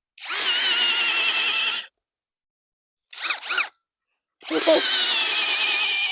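Cordless drill with an auger bit boring a hole into the ground. It runs in two bursts of nearly two seconds each, and the motor's whine sags slightly in pitch under load.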